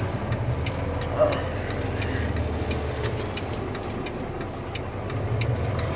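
Semi-truck tractor's diesel engine running low and steady while backing toward a trailer, with light clicks ticking over it.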